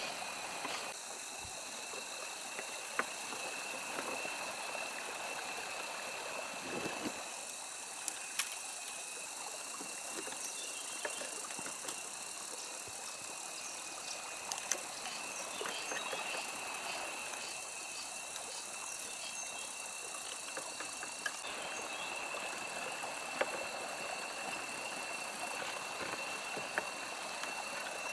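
Steady outdoor nature ambience: a constant high-pitched whine over an even water-like hiss, with scattered light clicks and taps.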